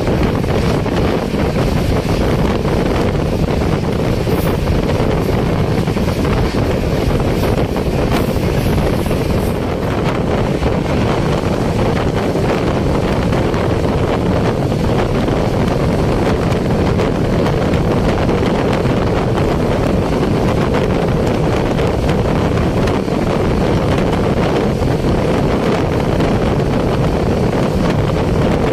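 Steady rush of wind on the microphone over the continuous rumble of a passenger express train running at speed along the track.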